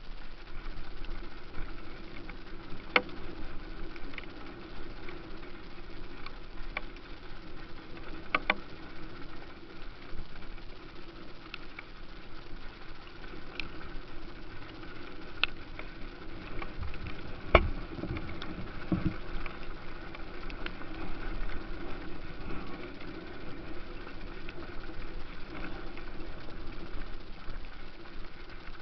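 Motocross bike engines running steadily at a distance, with scattered sharp clicks or knocks, the loudest about two-thirds of the way through.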